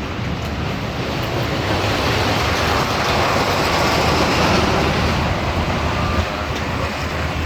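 Amusement park ride train running along its track, a steady rumble of wheels and motor heard from aboard. It grows louder through the middle and eases off near the end.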